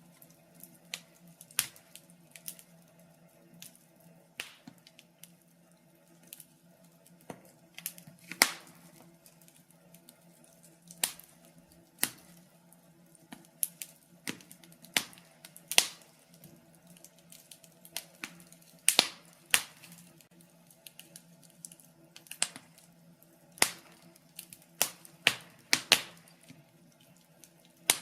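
Wood fire crackling: irregular sharp pops and snaps from burning logs, a few louder cracks standing out, over a faint steady low hum.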